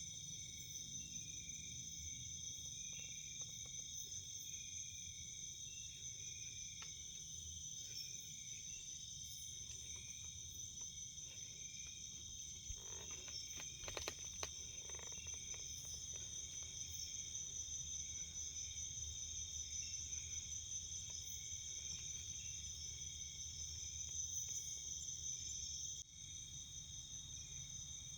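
Forest insects, crickets, trilling in a steady unbroken chorus of high tones, with a softer pulsing call beneath them. There is a faint low rumble throughout, and a few soft knocks about halfway through.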